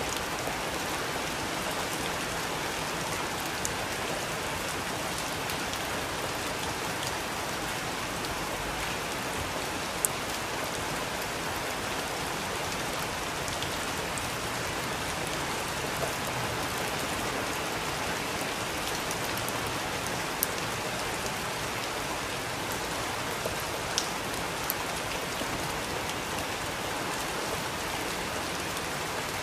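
Steady rain falling, an even patter, with a few louder single drop taps standing out now and then.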